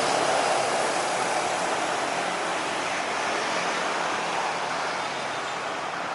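Jet aircraft engine noise, a steady rushing sound that slowly fades.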